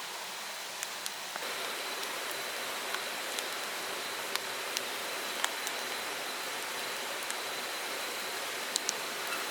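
Mountain stream rushing steadily, with scattered small sharp clicks over it.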